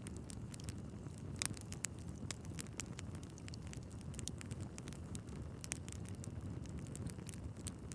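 Wood fire in a fireplace crackling and popping, with frequent sharp snaps over a steady low rumble of flames; two louder pops stand out, about a second and a half in and near the middle.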